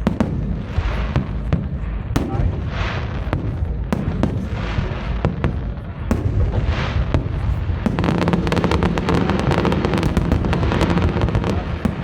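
Fireworks display: repeated deep booms of aerial shells bursting, turning about two-thirds of the way in to a dense, fast crackling of many small bursts.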